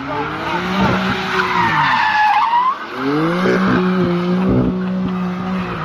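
A car drifting: the engine revs up and down, held high on the throttle, while the tyres squeal. The squeal is loudest about two seconds in.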